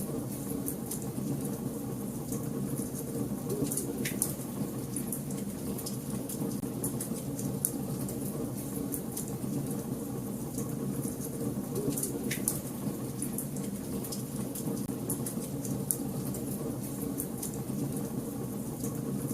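Wood fire burning in a fireplace: a steady low rush with frequent small crackles, and a few louder pops, about four seconds in and again about twelve seconds in.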